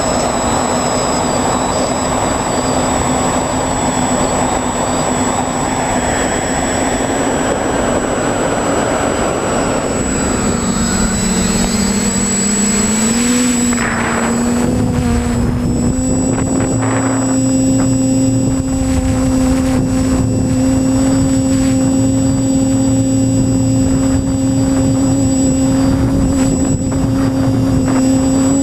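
Quadcopter's electric motors and propellers whining steadily, heard from the GoPro mounted on the craft, with rushing air noise over the first part. The pitch sags about ten seconds in, then climbs back and holds steady.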